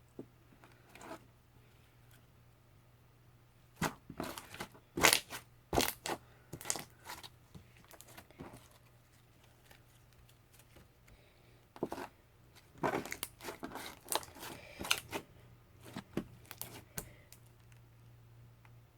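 Blue slime being squeezed and stretched by hand, giving sharp crackly pops and clicks in two spells of a few seconds each, with a quiet pause between.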